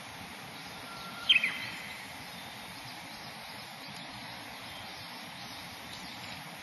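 Steady open-air background noise on a lake, with one short, sharp, high sound about a second and a half in.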